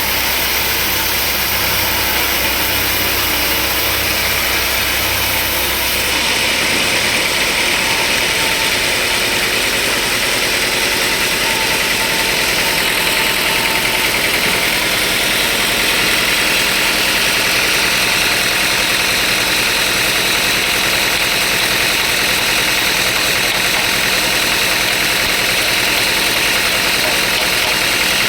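Sawmill machinery running steadily with a motor-like drone; about six seconds in the lowest hum drops away and a brighter, hissing tone takes over.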